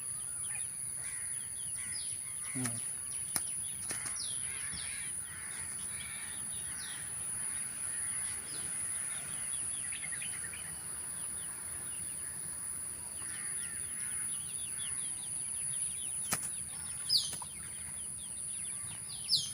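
Small birds chirping over and over in short falling calls against a steady high-pitched whine, with a couple of sharp clicks.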